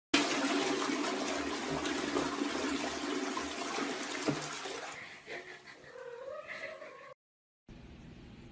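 A loud, steady rushing noise for about five seconds, with a single knock just past four seconds. A cat then meows with a wavering, rising and falling pitch. The sound cuts out briefly and a quieter background hiss follows.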